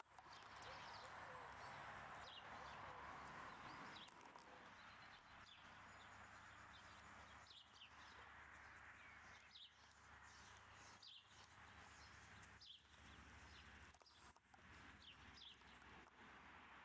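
Near silence: faint outdoor ambience with scattered short, high, falling bird chirps.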